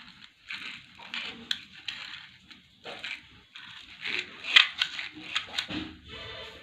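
Irregular crunching and scraping handling noise with sharp clicks, loudest about four and a half seconds in, and a short buzzing tone near the end.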